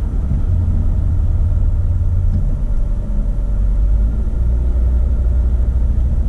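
Steady low rumble of a moving car heard from inside the cabin: tyre and engine noise while driving. The low drone shifts slightly lower in pitch about four seconds in.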